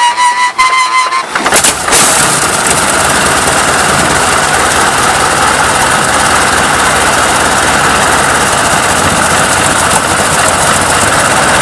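A powerful engine starting with a sudden burst about a second and a half in, then running loud and steady.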